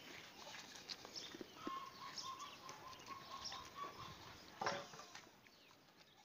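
Birds chirping, with a run of short, evenly repeated notes through the middle, and a single thump about four and a half seconds in that is the loudest sound.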